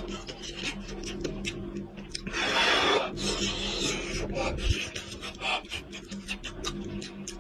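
Close-up eating sounds of goat head being chewed: many short mouth clicks and rasping noises, with a longer, louder rasping stretch about two and a half seconds in, over a faint steady hum.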